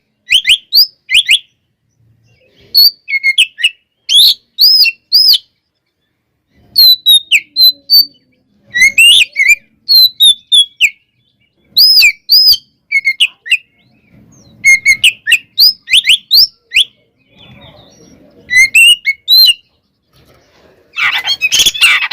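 Oriental magpie-robin (kacer) singing a challenge to a rival: loud, clear, arched whistled notes in short phrases of two to four, with pauses between them. Near the end comes a denser, harsh burst of sound.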